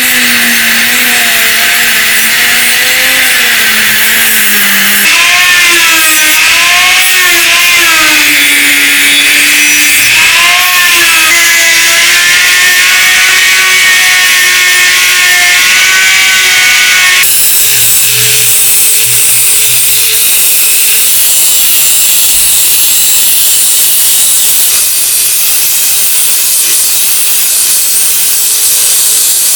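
Power tool grinding or sanding: a loud, steady hiss with a motor whine whose pitch wavers up and down as the load changes. About 17 seconds in, the sound changes abruptly and the whine fades, leaving a more even hiss.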